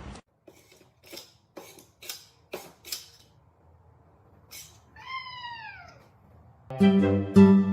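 A cat meowing once, a call of about a second that falls in pitch, after a run of sharp clicks or taps. Music starts loudly near the end.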